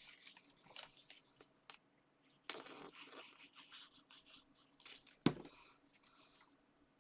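Paper and card being handled at a craft table: scattered rustles, a longer rustle a couple of seconds in, and one sharp knock of card or a tool set down about five seconds in.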